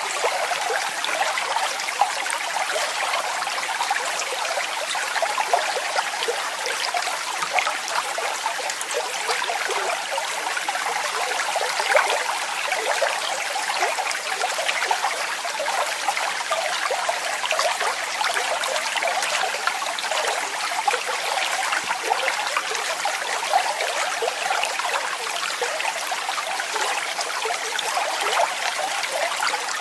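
Waterfall, its water falling and splashing without a break: an even hiss with small bright splashes all through and hardly any deep rumble.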